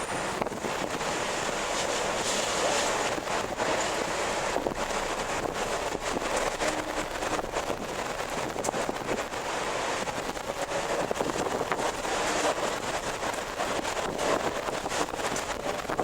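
Wind blowing hard in uneven gusts, a steady rushing noise that swells and eases, with a few faint, brief creaks.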